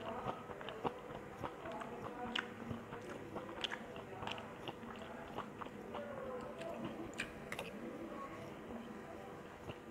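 A person chewing a mouthful of egg fried rice, with many small irregular clicks.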